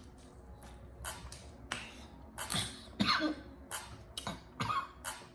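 A woman coughing repeatedly in short, sharp bursts, some with a rough catch of voice: she is choking on spicy crab sauce.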